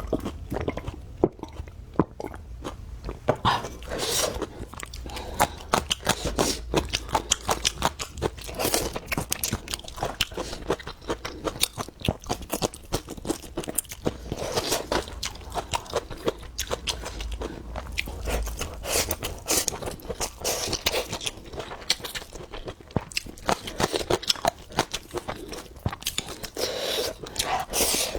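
Close-up chewing of crisp, crunchy food: dense rapid crunches and bites that swell into louder bouts every few seconds.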